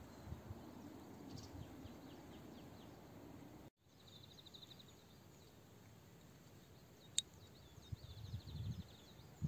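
Faint outdoor ambience with high, rapid trills of about a dozen notes a second, coming and going. The sound cuts out completely for a moment just before four seconds in, and there is a single sharp click a little after seven seconds.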